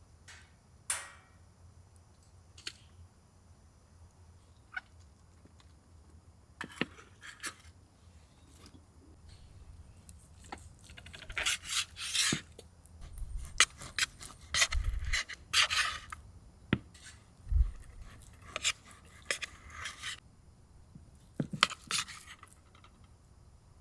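Scattered handling sounds: light clinks, scrapes and rustles, sparse at first and busiest in the middle.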